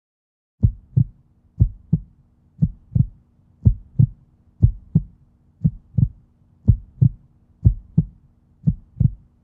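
Heartbeat sound effect: paired low thumps, one pair about every second, over a faint steady hum. It starts about half a second in.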